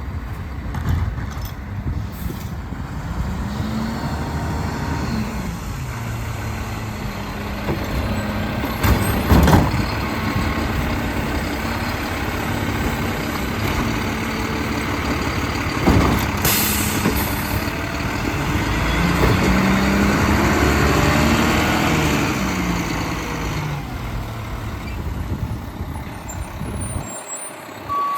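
Mack LEU garbage truck with a Bridgeport packer body working: the diesel engine revs up and down as it drives the packer, with two loud bangs and a short air hiss partway through.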